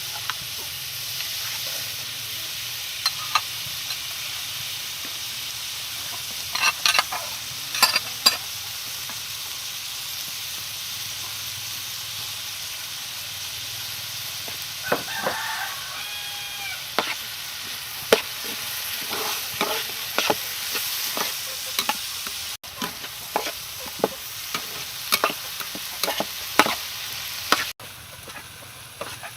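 Raw rice being stir-fried in a hot pan: a steady sizzle, with the clicks and scrapes of a spatula stirring the grains.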